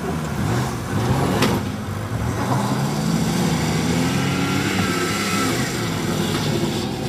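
Engines of several old cars and vans running and revving as they drive around a grass field, their pitch rising and falling. There is one short sharp knock about a second and a half in.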